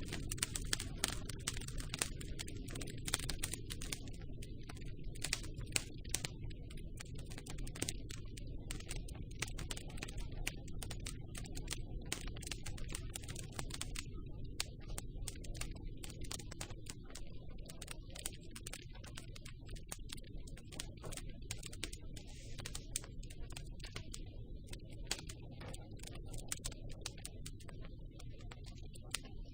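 Campfire burning: many sharp crackles and pops of burning wood over a low, steady rumble. The crackling thins out somewhat about halfway through.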